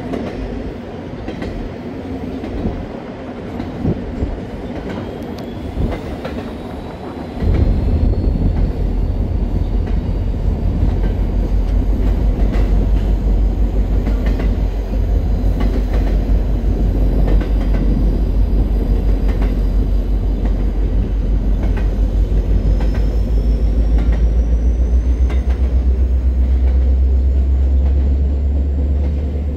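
Double-stack intermodal freight train rolling past, its wheels clicking over the rail joints. About seven seconds in, a heavy low rumble sets in suddenly and holds, louder. A faint rising whine sounds above it now and then.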